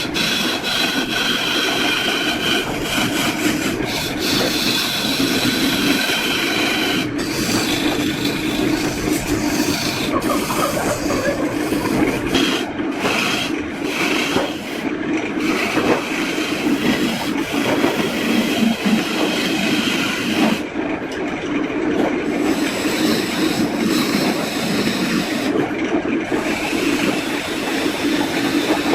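Steady rubbing and grinding of a tool working wood, with a faint whine in the first several seconds.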